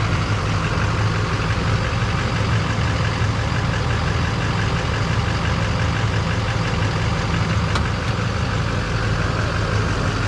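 2006 Chevy 3500 pickup's engine idling steadily in park.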